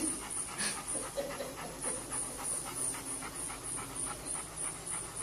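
A dog panting quickly and evenly.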